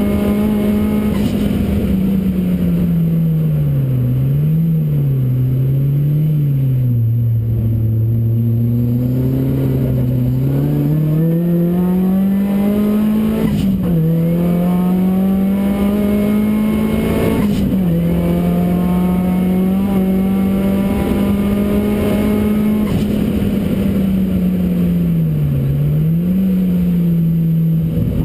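Ford Racing Puma's modified Focus RS engine running hard on track, its note climbing and dropping with the throttle. There are quick lifts and gear changes, with sharp breaks in pitch about halfway through and again a few seconds later.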